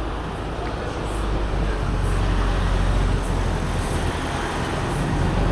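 Street traffic with a vehicle engine's low rumble and road noise, swelling about two seconds in and easing off slightly.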